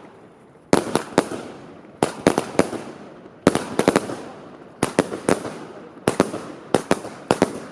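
Fireworks going off: a quick cluster of three or four sharp bangs about every second and a half, six clusters in all, each fading away in echo before the next.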